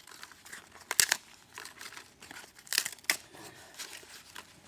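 Dry birch bark crinkling and crackling as it is handled and tucked in among the firewood, with the sharpest crackles about a second in and again just before three seconds.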